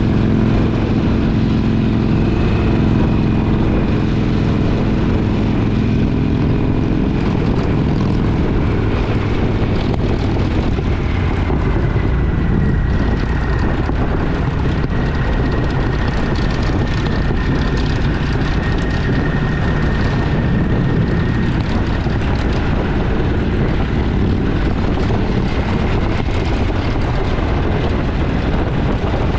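Motorcycle engine running steadily on the move, with wind rush over the microphone.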